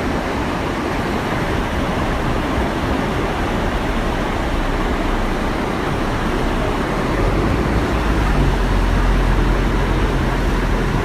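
Steady rushing of a waterfall. About seven seconds in, a low steady hum comes in underneath and the sound grows slightly louder.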